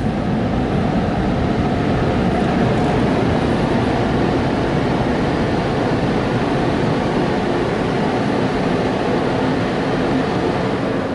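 PDQ ProTouch Tandem touchless car wash running its drying pass: the dryer blowers make a steady, loud rush of air, heard from inside the car.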